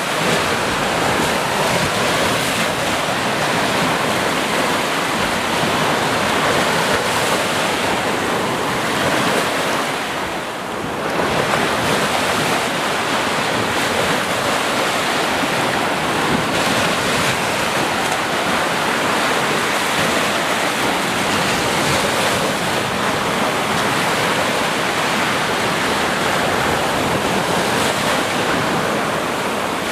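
Ocean surf: waves washing and breaking in a steady rush, dipping briefly about ten seconds in before swelling again.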